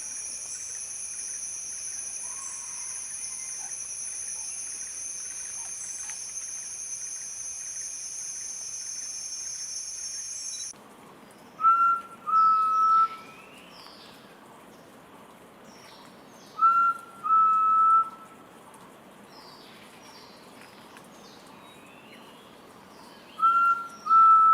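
Forest quail calling with a clear whistled two-note phrase, a short note followed by a longer one, given three times about six seconds apart in the second half. Before that, a steady high insect drone that cuts off abruptly about eleven seconds in, after which other small birds chirp faintly.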